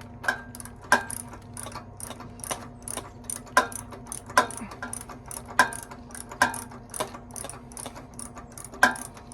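Ratchet wrench with a spark plug socket clicking as it backs the spark plug out of an Ironton 208cc engine, with a few louder knocks of tool on metal in between.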